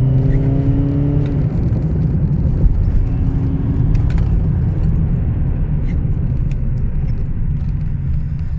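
Skoda Superb's swapped-in ASZ 1.9 TDI diesel engine running with a steady low rumble. A humming tone over it dies away about a second and a half in, and faint short ticks come through. This is the engine the owner says chirps since the swap, goes into limp mode and throws code P2279 for an intake air leak.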